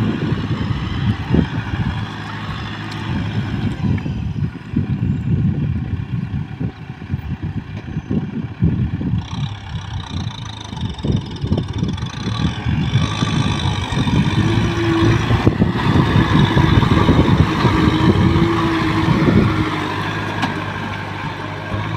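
Kubota M6040 tractor's four-cylinder diesel engine running steadily while working muddy ground, with uneven low thuds throughout and a steady hum rising in the second half.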